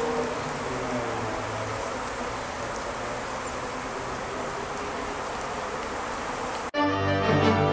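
Dense, steady buzzing of a large honeybee swarm. Near the end it cuts off abruptly and music starts.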